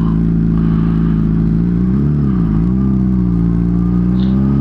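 Honda CBR600RR inline-four motorcycle engine running at steady speed under way. The pitch dips briefly and comes back up about two seconds in, then climbs slowly near the end.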